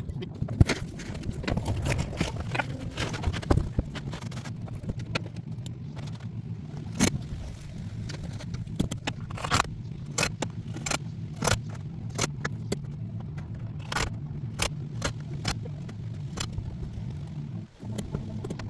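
Irregular sharp metallic clicks and clanks of metal-roofing work, about one to three a second, over a steady low motor hum.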